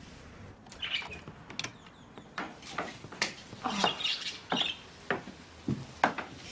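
A small bird chirping and squawking in short, sharp calls, scattered through the stretch.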